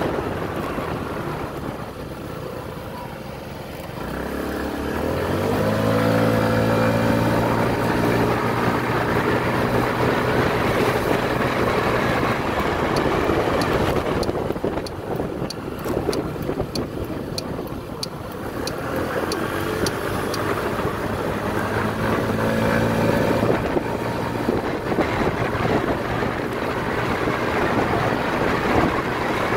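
Motorcycle engine pulling away, rising in pitch about four seconds in and holding steady, then easing off; it picks up and rises again about two-thirds of the way through. Wind noise on the microphone runs under it.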